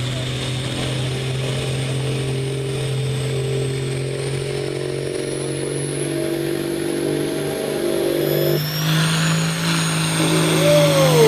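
Modified farm pulling tractor's engine running hard under load while pulling the weight-transfer sled, its pitch slowly climbing. About nine seconds in the sound changes and grows louder, and near the end the engine note swings up and down.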